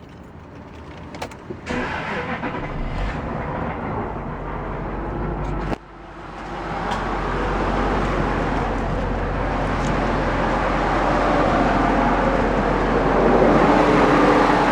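Jaguar XJ8's V8 engine running with a heavy, diesel-like knock, which the owner takes for rod knock or piston slap in a badly worn engine. The sound dips suddenly about six seconds in, then grows louder.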